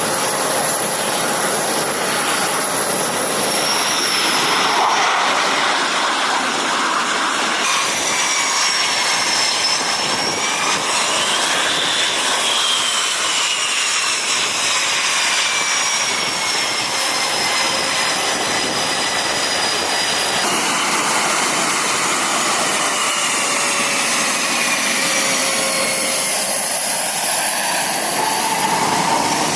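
Jet aircraft engines running loud, with a steady rushing noise and high turbine whines that glide down in pitch. The sound changes abruptly twice, about 8 and 20 seconds in.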